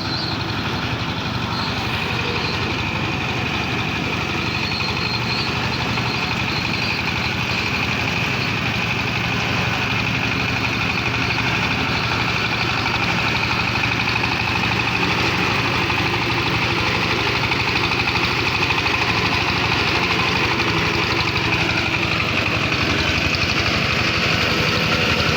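A heavy vehicle engine running steadily with a fast, even firing pulse and a steady high whine, growing slightly louder toward the end.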